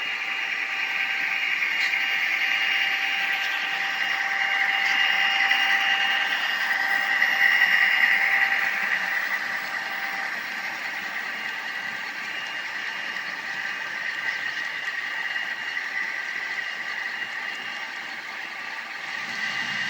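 HO scale model train running on the layout: a steady mechanical hum with no deep bass, growing louder toward about eight seconds in and then easing off.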